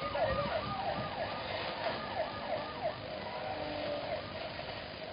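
A siren-like yelp: a tone that sweeps up and falls back about three times a second, then settles into a steadier tone after about three seconds.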